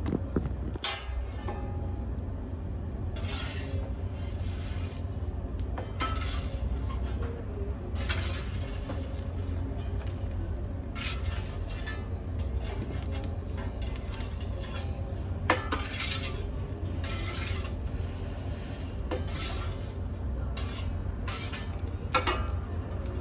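Scattered metallic clinks and scrapes, like tools or metal pieces being handled, over a steady low rumble.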